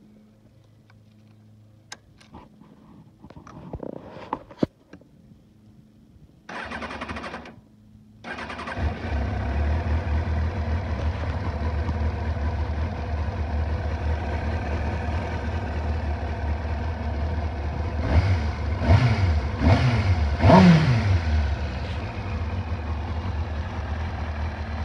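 2001 Kawasaki ZX-6R's inline-four engine started by its electric starter: a few clicks, a second of cranking, a short pause, more cranking, and the engine catches and settles into a steady idle. About ten seconds after it starts, the throttle is blipped four times in quick succession before it drops back to idle.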